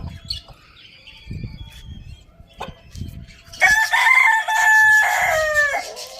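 A rooster crows once, loud and drawn out for about two seconds, its last note dropping in pitch. Before it come scattered short clicks and soft clucks from the flock.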